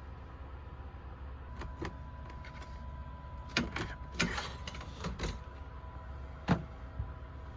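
Scattered clicks and knocks inside a train sleeper roomette, the loudest a sharp knock near the end, over a steady low hum and a faint steady tone.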